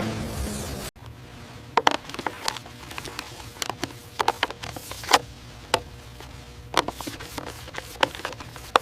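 Music that cuts off abruptly about a second in, followed by irregular light clicks and taps over a low background.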